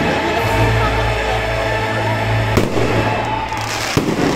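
Fireworks bursting, with two sharp bangs about two and a half and four seconds in, over loud background music with a steady bass line.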